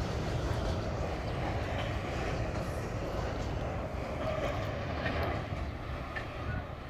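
Freight train moving away along the track, a steady low rumble from its wagons on the rails that slowly fades near the end.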